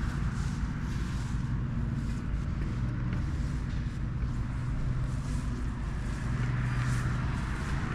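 An engine running steadily with a low, even note.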